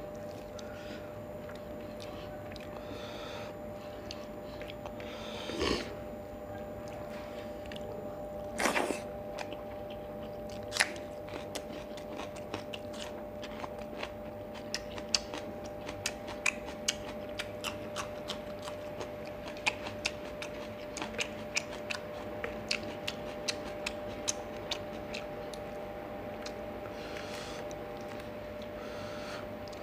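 A person chewing rice and fried fish eaten by hand, with many small sharp mouth clicks and crunches through the middle stretch. Two short louder rushes of noise come about six and nine seconds in, over a faint steady hum.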